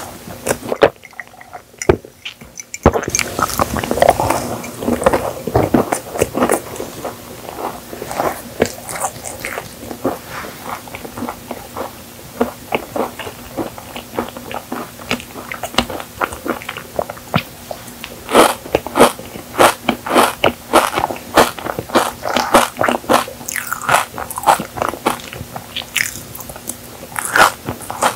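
Close-miked chewing of a chocolate-coated marshmallow cookie: a dense run of small crunchy crackles and clicks, growing busier in the second half.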